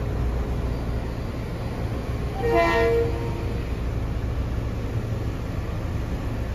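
A Kawasaki M8 electric multiple-unit train rumbles steadily past the platform. About two and a half seconds in, a train horn sounds one short toot lasting under a second.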